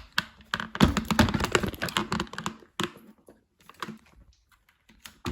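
Rapid plastic clicking and rattling as a Dyson vacuum is handled, busiest in the first two seconds, then a few scattered clicks with quiet gaps.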